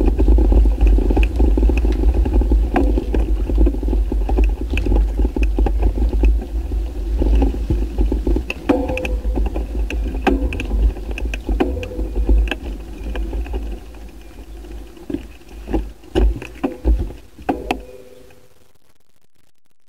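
Wind buffeting the microphone of a bike-mounted action camera during a ride, with a loud low rumble and frequent rattling clicks. It fades over the last few seconds and cuts off near the end, as the bike slows to a stop.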